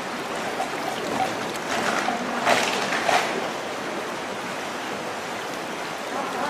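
Stream water running steadily, with two short splashes about two and a half and three seconds in.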